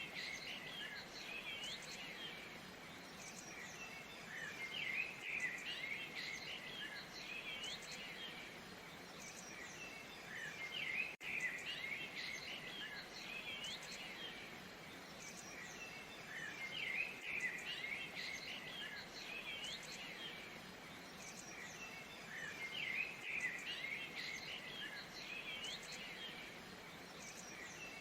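Waterfall's steady rush of falling water, with small birds chirping in clusters that come back about every six seconds.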